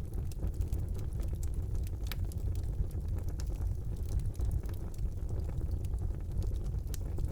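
Wood fire burning in a fireplace: a steady low rumble of the flames with frequent small sharp crackles and pops scattered throughout.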